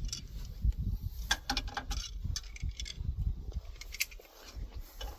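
Scattered metallic clicks and clinks of a wrench and steel pump parts being handled while a threaded pump section is done up in a vise, over irregular low knocks.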